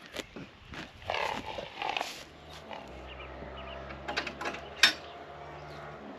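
An animal call about a second in, then a steady low hum with a few sharp knocks.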